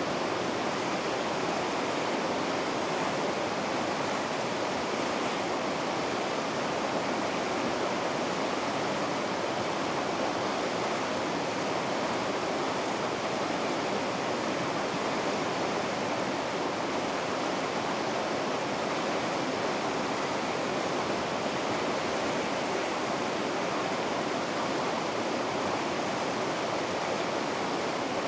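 Steady rushing of water over river rapids, a constant even roar with no change.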